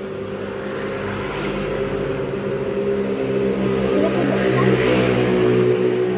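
Motorcycles passing by, their engines running with a steady hum that grows louder toward about five seconds in and then eases slightly.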